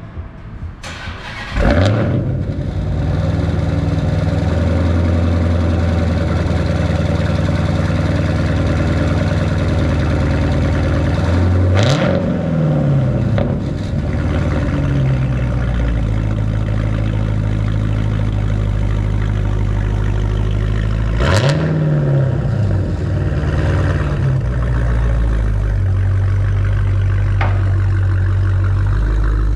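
Dodge Challenger Hellcat's supercharged 6.2-litre Hemi V8, running with its mufflers and mid pipes removed, starts up about two seconds in with a quick flare. It then settles into a steady idle and is revved briefly twice.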